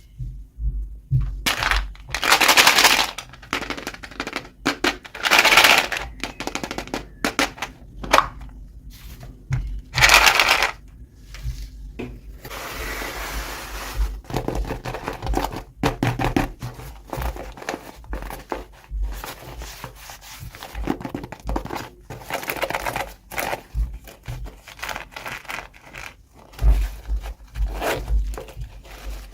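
Packaging being handled and opened by hand: a run of crinkling and tearing, with scrapes and small knocks between. The loudest bursts come about two, five and ten seconds in.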